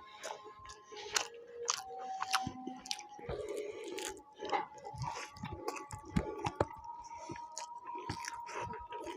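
Close-miked chewing and crunching of food, irregular bites and crunches, with background music.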